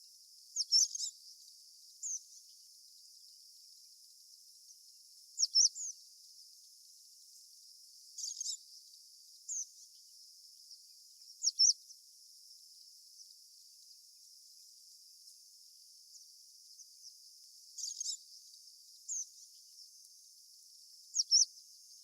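Short, high-pitched bird chirps in quick clusters of two or three notes, repeating every few seconds over a steady high hiss.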